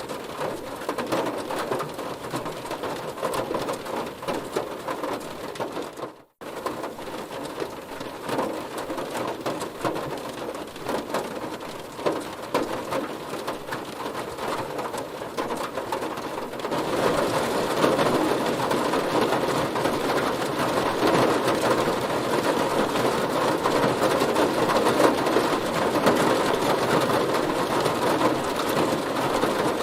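Heavy rain drumming steadily on a car. The sound cuts out for an instant about six seconds in, then grows louder and heavier from a little past halfway.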